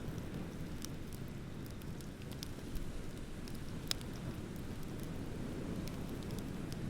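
Bonfire crackling, with scattered sharp pops and the sharpest about four seconds in, over a steady low rush of ocean waves.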